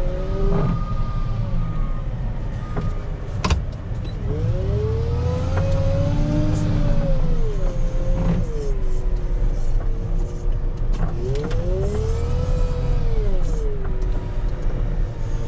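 Rubber-tire wheel loader's diesel engine running with a low rumble, revving up and back down twice in long, smooth swells with a whine, as the loader works the snow back and forth. There is a sharp knock about three and a half seconds in.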